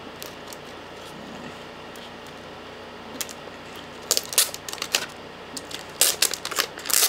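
Plastic packaging and paper being handled, with crinkling and sharp clicking crackles in two short flurries, one about four seconds in and one near the end.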